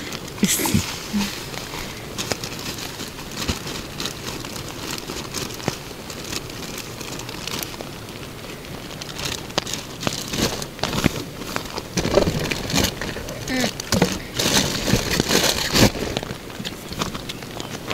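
Rain pattering on the tent, with a clear plastic bag crinkling and rustling as it is handled close by. Near the end a plastic water bottle is handled and crackles.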